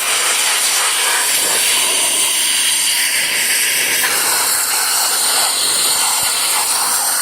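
Pressure washer spray blasting water onto a small engine: a loud, steady hiss.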